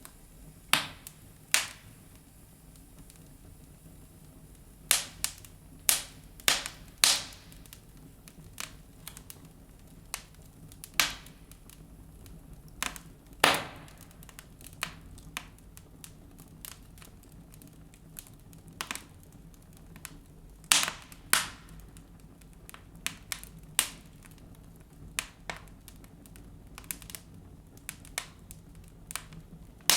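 Wood fire burning in a fireplace, crackling with irregular sharp pops, some loud, over a faint low hiss of the flames.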